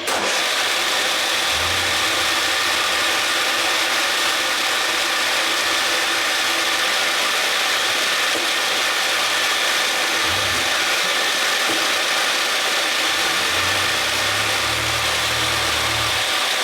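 Milling machine spindle running steadily with a whine of several fixed tones while a 5 mm drill held in a collet drills through a plastic gear blank. It starts suddenly at the beginning, with a few low rumbles along the way.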